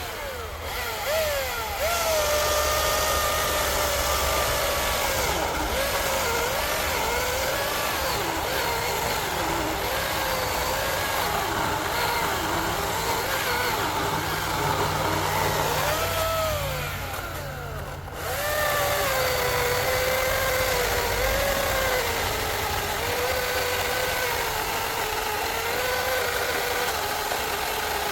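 Battery-powered chainsaw cutting through an oak log. Its motor whine sags in pitch as the chain loads up in the wood and climbs again as the load eases. Past the middle the whine drops away briefly, then the saw speeds up and cuts on.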